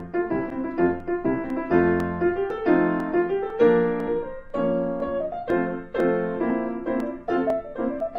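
Background piano music: a run of single notes struck one after another, each starting sharply and fading.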